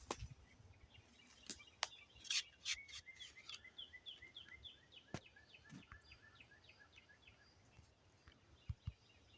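A wild bird calling a rapid series of short, falling chirps, about four a second, for several seconds before trailing off. A few sharp clicks come with it, a cluster of them just before the chirping starts.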